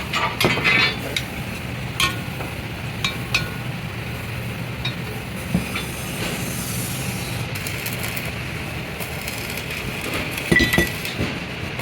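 Scattered metallic clinks and knocks, as of hand tools striking or setting down on steel parts, over a steady low hum. A louder ringing clatter comes near the end.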